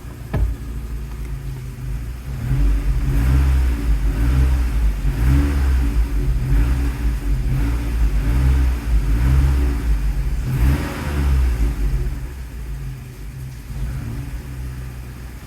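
Saab 900 SPG's turbocharged four-cylinder engine idling, then revved up and let fall back about half a dozen times before settling to an even idle near the end. A sharp knock sounds just after the start.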